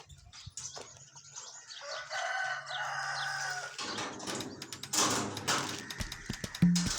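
A rooster crowing once, one long call of just under two seconds, followed by a brief noisy rustle and the start of background music with a beat near the end.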